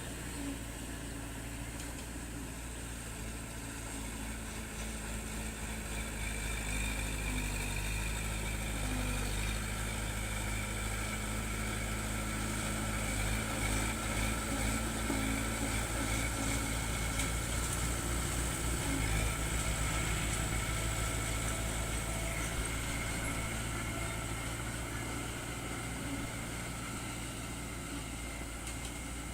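Diesel engine of earthmoving machinery running steadily, its level rising for a while in the middle and then easing back down.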